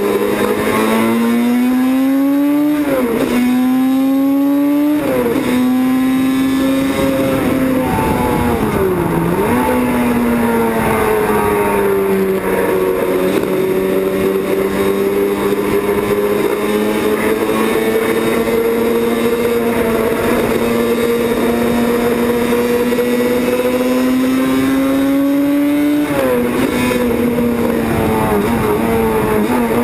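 Two-stroke racing motorcycle engine, a Yamaha YZR750 OW31, running hard at high revs: its pitch climbs and drops sharply through two quick upshifts at the start, dips and recovers about nine seconds in as it slows for a corner, then holds high and slowly climbing before dropping with another gear change near the end.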